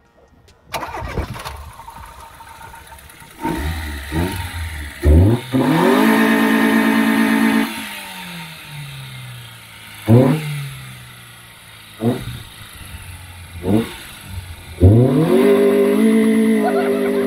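Opel Corsa's four-cylinder petrol engine with a 2-step launch limiter on the standard ECU, given quick throttle blips and then twice revved hard up to the limiter and held there. Each time the revs climb and then hang at one fixed pitch, first about 5 s in and again about 15 s in, before dropping back.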